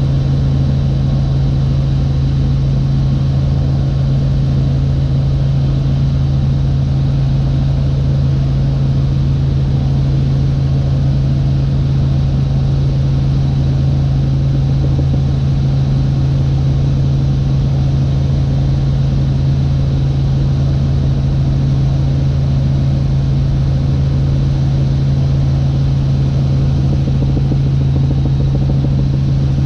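Helicopter in flight: a steady, unchanging drone with a strong low hum from the engine and rotors.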